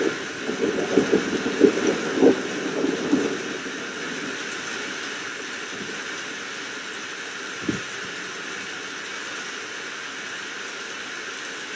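Steady rain hiss with a rolling rumble of thunder in the first three seconds, then one short thump about eight seconds in.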